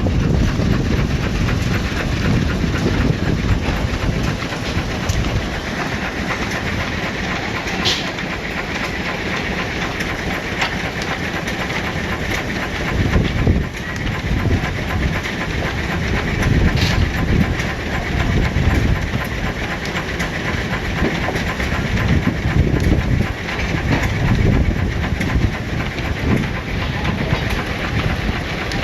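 Nichols and Shepard 20-75 steam traction engine running under load, belted to a sawmill, with the engine's rhythmic working sound and steam. A steadier, higher-pitched sound joins about six seconds in, and a few sharp clicks stand out.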